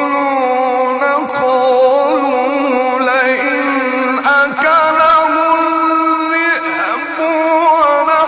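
A man's voice in melodic Quran recitation, holding long, ornamented notes that waver and shift in pitch.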